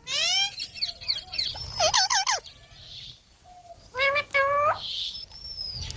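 Pet green parrots giving harsh, high squawking calls in three short clusters, at the start, around two seconds and around four and a half seconds: a squabble between the birds.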